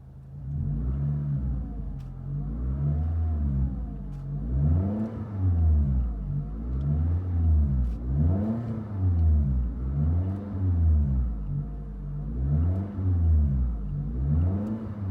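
2013 Scion tC's 2.5-litre four-cylinder heard through a Rich's Street Demon cat-back exhaust, revved up and let fall again and again, about once a second.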